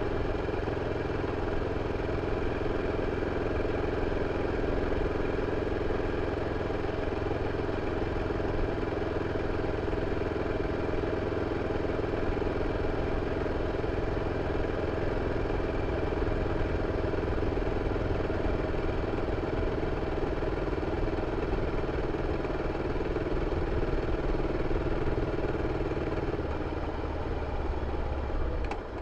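BMW F 650 CS Scarver's single-cylinder engine running steadily through its stock exhaust, with a brief dip in loudness near the end.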